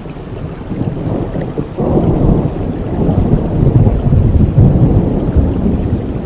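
Steady rain with a long rolling rumble of thunder that swells about two seconds in and stays loud through the middle.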